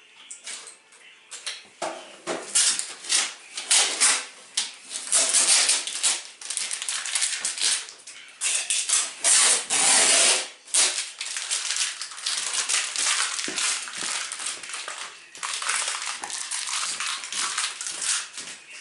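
Cardboard and plastic packaging being handled: dense crackling, rustling and scraping with many sharp clicks, as a boxed appliance is opened and unpacked.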